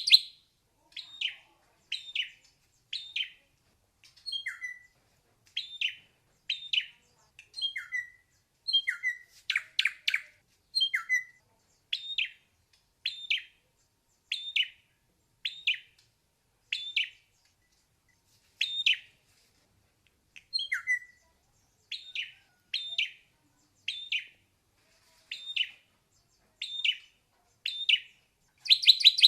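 Ashy drongo calling: short, high notes repeated about once a second, some dropping in pitch, with a quick rattle of several notes at the start and again near the end.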